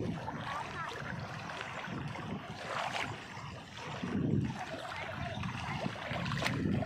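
Strong sea wind gusting against the microphone, with waves washing. The low rumble swells in gusts, about three seconds in and again near the end.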